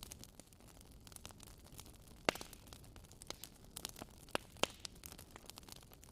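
Wood fire in a fireplace crackling, with irregular sharp pops over a soft steady hiss; the loudest pop comes a little over two seconds in.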